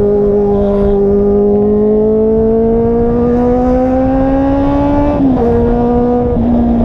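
Car engine and exhaust running under steady load, its pitch climbing slowly for about five seconds, then dropping suddenly and holding steady at the lower pitch.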